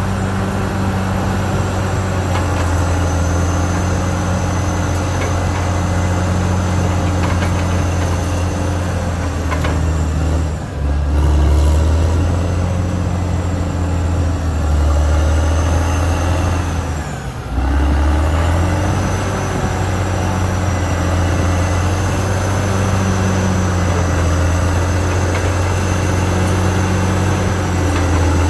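Caterpillar D6R XL bulldozer's diesel engine running steadily under work, a deep drone with a thin high whine above it. Twice, about ten and seventeen seconds in, the sound briefly drops away and then comes back with a changed engine note.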